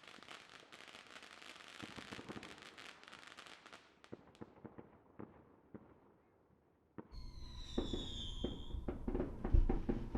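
Consumer fireworks across a neighbourhood: a dense run of crackling pops that thins out to scattered single pops about four seconds in, then a brief lull. Near the end a new stretch begins with a falling whistle from a whistling firework, more pops and a few heavier booms.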